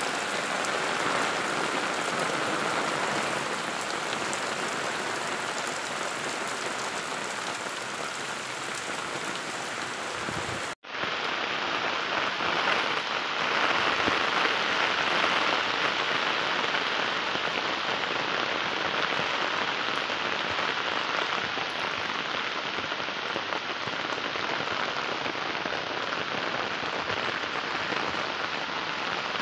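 Steady rain falling, an even hiss of drops without a break except for a momentary cut-out about eleven seconds in.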